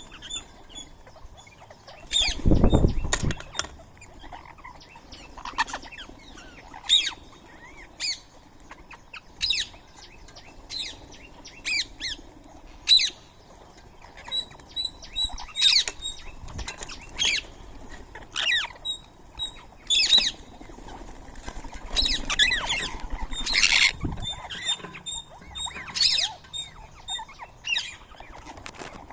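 Indian ringneck parakeets giving short, sharp squawking calls over and over, about one a second, with a burst of wing flapping about two to three seconds in.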